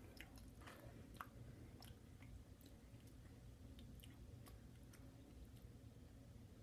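Faint close-up chewing of a mouthful of stroganoff noodles: soft wet mouth clicks, several in the first two seconds and a few more around four to five seconds in, over a low steady hum.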